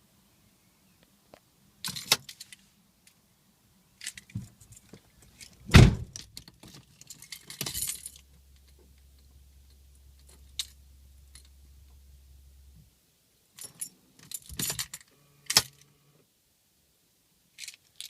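Car keys jangling and clicking in a Peugeot 307 that won't start, with a loud thump about six seconds in and a faint steady low hum for about five seconds in the middle; the engine never catches.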